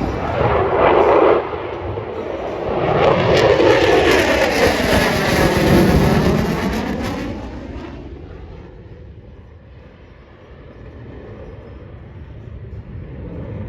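Jet aircraft flying past at an airshow, its engine noise swelling loud twice with a sweeping fall in pitch as it passes, then fading away to a distant rumble after about eight seconds.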